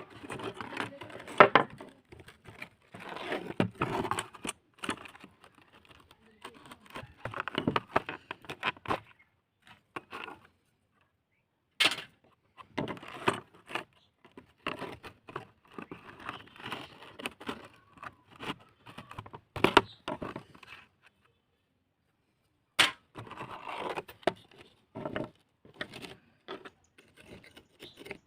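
Small clicks, scrapes and rustling of small parts and tools being handled, in uneven bursts with a few sharp clicks. Twice the sound drops to dead silence for a second or two.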